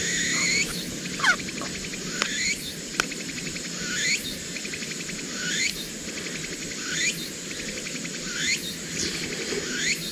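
An animal outdoors repeats a short rising call about every second and a half, over a steady low rush. A couple of sharp clicks fall in the first few seconds.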